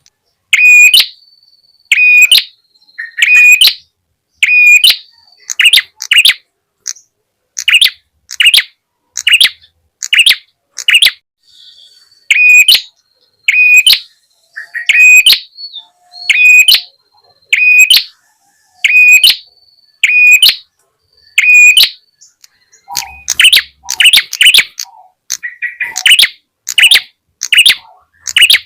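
Calls of a prenjak tamu (red-headed prenjak), played as a bird-luring call: sharp short chirps repeating about once a second. In the last few seconds the calls come faster and closer together.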